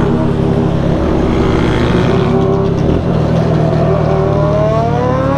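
Motorcycle engine running at a steady speed, then revving up with a rising pitch over the last second or so.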